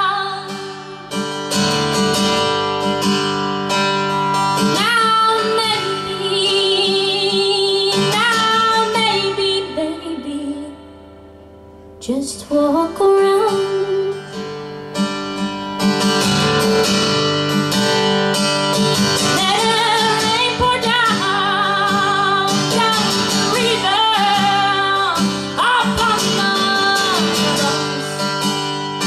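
A song with a woman singing over acoustic guitar, her held notes wavering in vibrato. The music drops to a quiet passage about ten seconds in and comes back in full about two seconds later.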